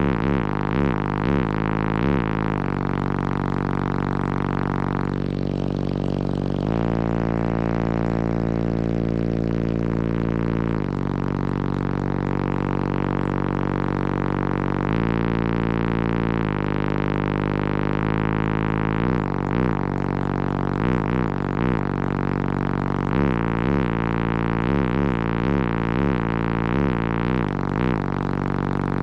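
A song played loud through a car audio system of three Resilient Sounds Platinum 18-inch subwoofers, the bass dominating: long held bass notes that change pitch every few seconds, with quick pulsing bass hits at the start and again from about two-thirds of the way in.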